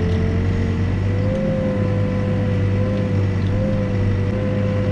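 Backhoe's diesel engine running steadily at working speed while digging a footing trench, with a steady whine above it that wavers slightly in pitch.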